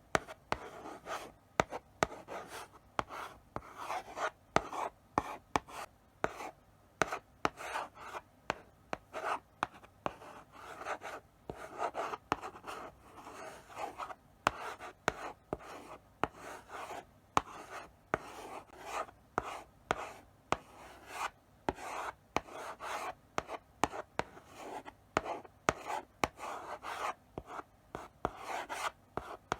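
Chalk writing slowly on a blackboard: irregular scratchy strokes, broken by many sharp taps as the chalk meets the board.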